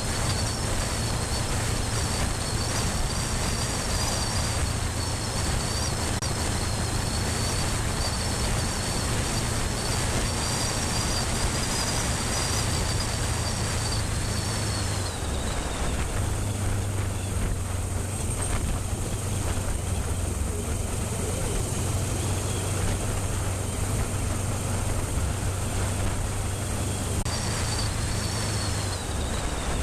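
Heavy wind noise buffeting an action camera's built-in microphone on a moving motorcycle, with a steady low drone underneath. A high wavering whine runs through the first half, drops away about halfway, and comes back near the end.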